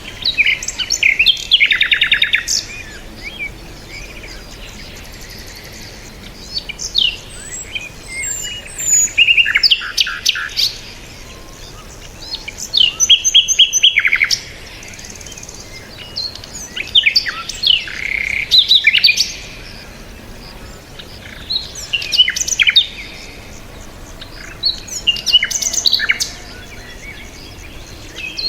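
Several songbirds chirping and singing in short bouts every few seconds, high-pitched trills and rapid chirp series over a faint steady outdoor background.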